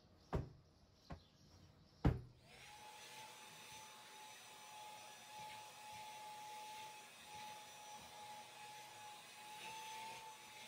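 Three sharp knocks, then an electric household appliance motor switches on and runs steadily with a constant whine.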